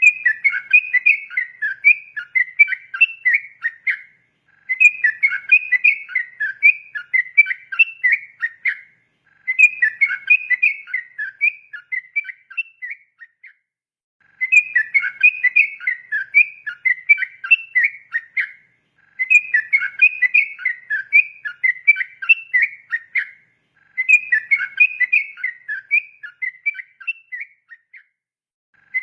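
Yellow-vented bulbul (trucukan) singing its long, rapid bubbling warble in repeated phrases of about four seconds, each followed by a brief pause of about half a second.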